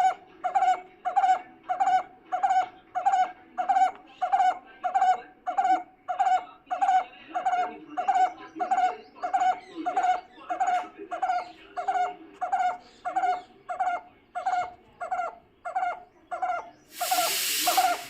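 A pet bird calling over and over, one short pitched call about every half second at an even pace. A brief rush of noise cuts in for about a second near the end.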